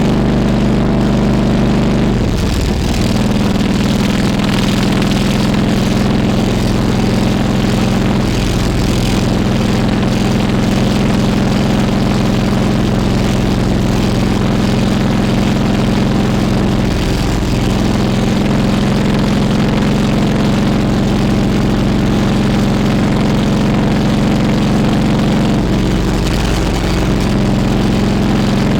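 Harley-Davidson Road King Classic's V-twin engine running while the bike is ridden. The engine note shifts in pitch about four times, as the revs change.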